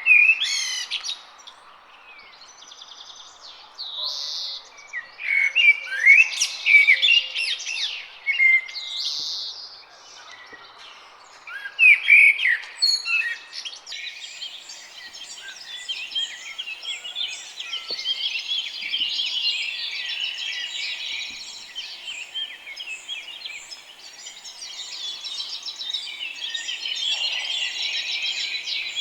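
Songbirds singing. There are separate loud, clear phrases through the first half, then from about halfway a dense, continuous chorus of many birds chirping together.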